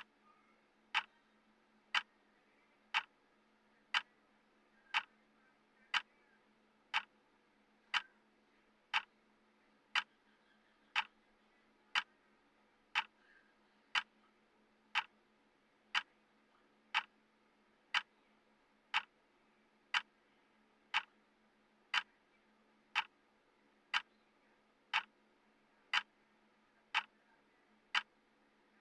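Clock-style tick of a countdown timer, one sharp tick every second, perfectly even, with a faint steady low hum underneath.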